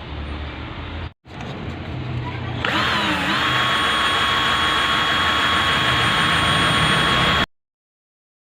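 Electric drill spinning up about a third of the way in and running at a steady high whine, turning the fan motor's rotor shaft against 1000-grit sandpaper to polish off rust. The whine cuts off suddenly near the end.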